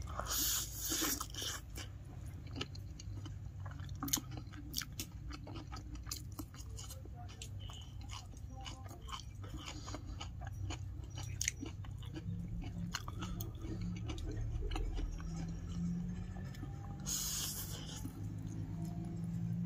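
A person chewing and eating chow (fried noodles) close to the microphone: wet chewing with many small scattered clicks and crunches of bites. There are two brief louder noisy bursts, one at the start and one near the end.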